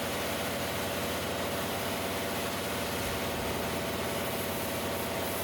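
Sandblasting: compressed air and abrasive hissing steadily from a blast nozzle, over the steady hum of the air compressor.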